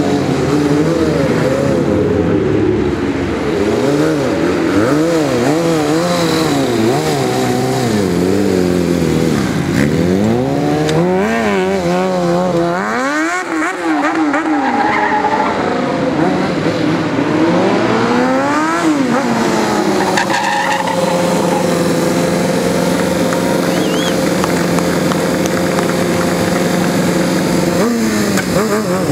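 Stunt motorcycle engine revving up and down again and again as the rider works the throttle through wheelies, with one sharp rev about halfway. For the last several seconds the engine is held at steady revs.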